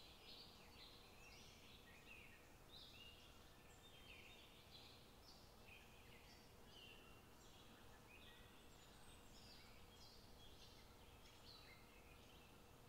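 Faint chirping of birds: many short calls overlapping throughout, over a faint steady hum.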